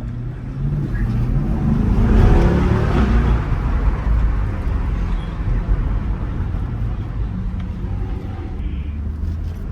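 A car engine accelerating hard, loudest about two seconds in as its pitch rises, then settling into a steady low exhaust rumble.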